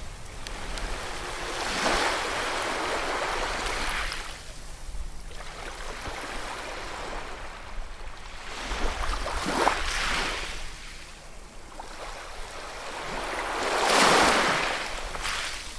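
Ocean waves breaking on a shore, each swelling up and washing back about every four to six seconds, the loudest near the end.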